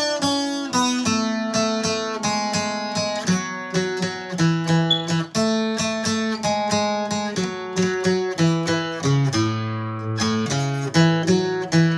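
Acoustic guitar playing a campirano-style 2/4 arrangement slowly, one picked note after another in a steady rhythm, with low bass notes coming in during the second half.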